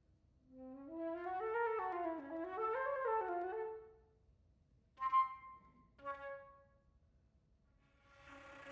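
Solo concert flute playing a winding phrase that climbs from its low register and steps up and down, then two short, sharply attacked notes. Near the end it plays a breathy, airy note, heavy with breath noise, an extended technique.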